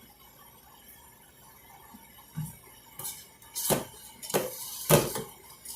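Kitchen cookware being handled: about six separate clanks and knocks of pots and utensils starting about two seconds in, the loudest near five seconds.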